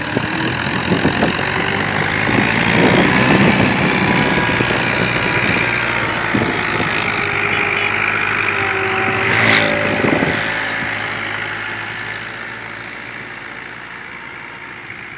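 Tractor engine running steadily while it pulls a laser land leveller. It grows loudest a little after halfway, then fades steadily as it moves off.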